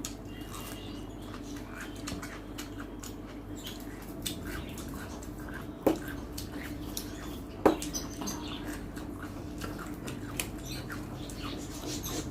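Close-up eating sounds: wet chewing and lip smacks, with many small clicks throughout and two sharper knocks about halfway through, over a steady low hum.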